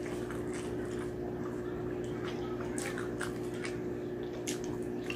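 Close-miked eating sounds: wet chewing and mouth noises with scattered sharp smacks and clicks, over a steady hum.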